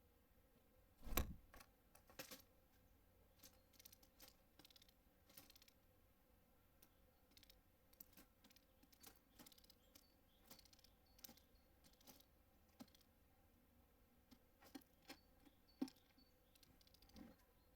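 Small birds pecking at seed on a feeder: irregular sharp taps and clicks of beaks against seed and feeder, with a louder thump about a second in.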